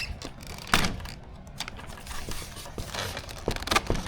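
Small parts and tools being handled on a work surface: a few scattered knocks and clicks, the loudest about three-quarters of a second in and a quick cluster near the end.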